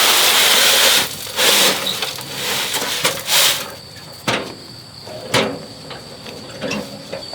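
Manual building work with wood: several rasping scraping strokes, the first about a second long, then a few sharp knocks.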